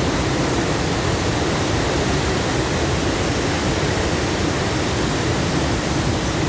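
Cachoeira do Buracão waterfall running full after heavy rain: a steady, unbroken rush of falling water.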